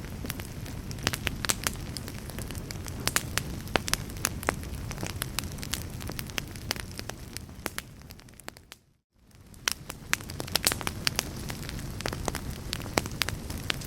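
Wood fire crackling: burning logs giving off many sharp pops and snaps over a low steady rumble. About nine seconds in the sound fades away to near silence for a moment, then comes back.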